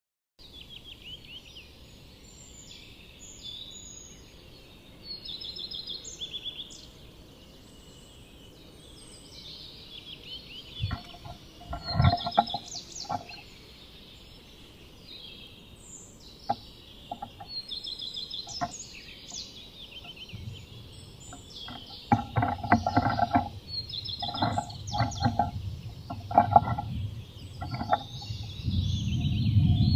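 Wild birds singing and calling outside, with clusters of knocks and scuffs from a Eurasian nuthatch working inside the nest box, a short burst about eleven seconds in and a longer run from about twenty-two seconds. A low rumble comes in near the end.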